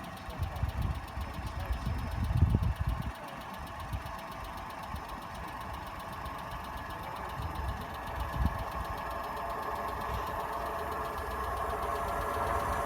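An engine running steadily, growing louder toward the end as a train draws near, with uneven low rumbling in the first three seconds.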